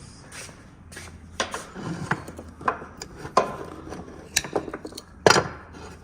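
Hand cutters snipping and working through an old rubber brake hose, which has swollen shut inside. The sound is a string of sharp irregular clicks and snaps with rubbing and handling noise between them, the loudest a little past five seconds in.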